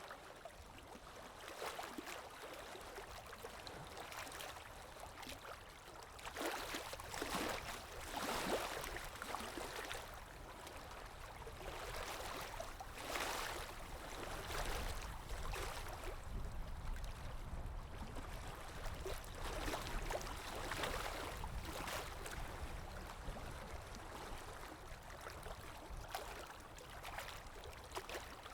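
Calm sea waves lapping and washing in gently, with small irregular surges every few seconds.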